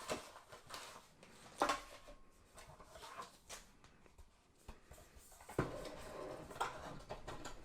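Cardboard box and plastic packaging being handled while unboxing a model airplane: scattered sharp clicks and taps, with steadier rustling from about five and a half seconds in.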